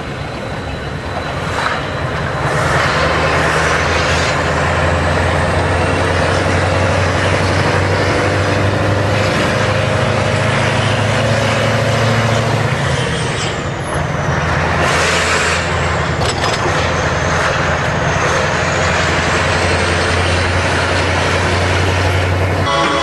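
Scania V8 truck engine running loud and steady with a deep, even rumble, swelling about two seconds in. A short hiss cuts in about fifteen seconds in.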